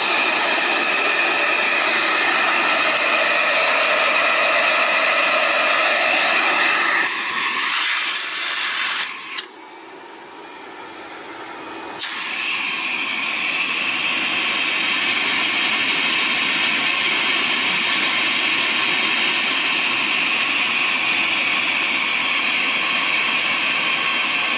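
A Miele canister vacuum runs with a steady motor whine and a rush of air while its suction is read at the end of its hose on a water-lift gauge. The note changes about seven seconds in, drops much quieter for a couple of seconds, then comes back suddenly and runs steadily.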